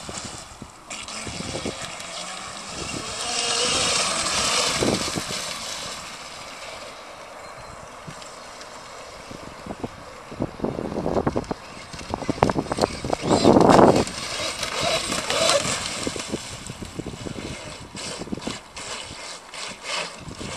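Electric RC racing catamaran running across the water, its high motor whine and spray swelling and fading as it passes, held back from full power by a battery low-voltage cutoff set too high. Wind buffets the microphone, loudest about two-thirds of the way through.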